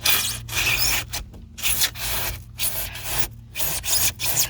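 Drywall knife sawing through dry pour-in polyurethane flotation foam. It makes rasping back-and-forth strokes, about two a second, with brief pauses between them.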